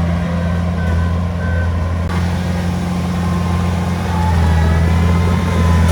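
Heavy diesel engine running steadily under a low drone, getting a little louder about four seconds in.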